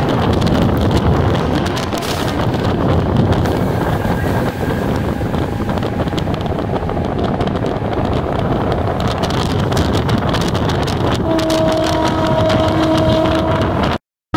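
Steady running noise of a MEMU electric train in motion, a rumble with wind buffeting the microphone. About eleven seconds in, a train horn sounds a steady chord of several tones for about three seconds, and the sound then cuts off abruptly.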